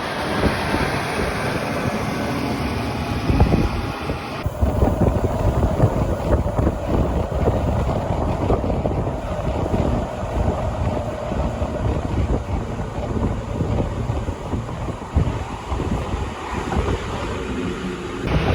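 Rhaetian Railway regional train running, a steady noise of wheels on rail with wind on the microphone. The sound changes abruptly about four and a half seconds in.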